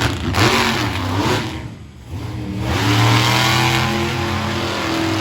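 Monster truck engine revving hard, falling away about two seconds in and then building back up to full throttle.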